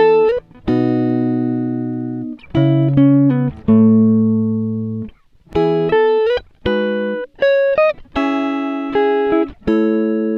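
Background music: a melody of plucked guitar notes, each ringing and fading before the next, with short gaps between phrases.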